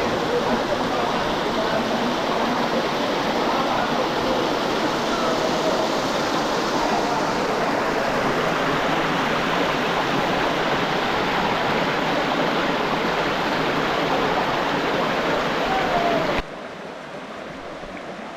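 Stream water rushing over rocks, a steady loud rush that cuts off suddenly to a much quieter background about sixteen seconds in.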